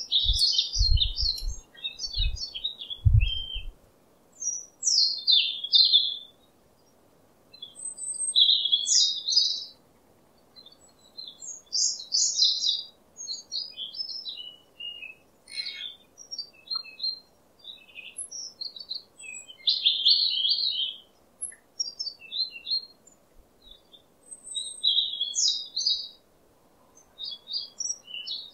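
Wild songbirds singing, short chirping phrases repeated every second or two with brief pauses between them. A few low thumps sound in the first few seconds.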